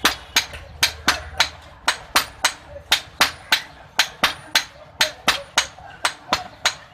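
Hand hammer forging an iron knife blank on an anvil: rapid, regular blows, about three to four a second, some with a short metallic ring.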